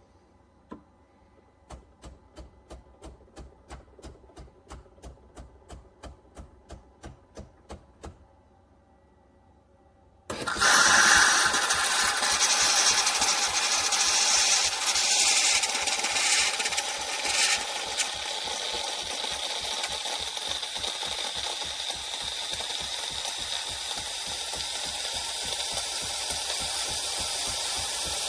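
Philips 4300 LatteGo espresso machine making steamed milk foam: first a run of soft rhythmic pulses, about three a second, then after a short pause a loud steady hiss and buzz as the milk frothing starts, about ten seconds in.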